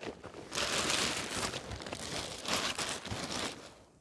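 Crinkling and rustling of packaging as items are stuffed into a bag or container, in two longer bouts about half a second and two and a half seconds in, with lighter rustles between.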